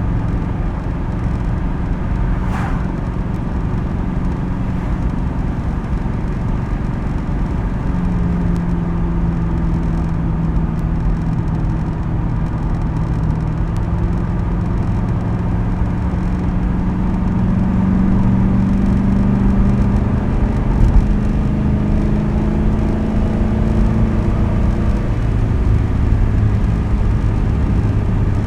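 2010 Ford Crown Victoria Police Interceptor's 4.6-litre V8 running through its new custom exhaust while driving. A steady drone slowly climbs in pitch for about fifteen seconds, then drops a few seconds before the end.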